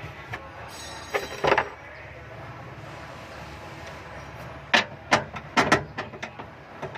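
A few sharp knocks and clicks over a steady low hum: two about a second and a half in, then a quick run of them around five seconds in.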